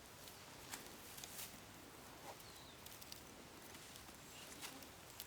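Quiet forest ambience with a few faint clicks and light knocks, sticks being handled and set in place.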